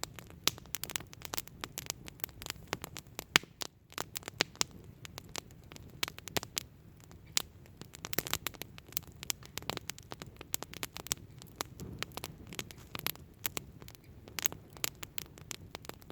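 Wood campfire crackling: dense, irregular sharp pops and snaps of burning wood over a low steady rush, with one louder crack about three seconds in.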